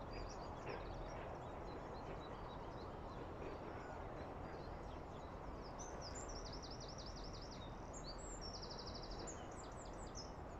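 Songbirds singing and calling, with short high notes throughout. About six seconds in comes a quick run of repeated sweeping notes, and near nine seconds a fast trill. Under them is a steady low outdoor background noise.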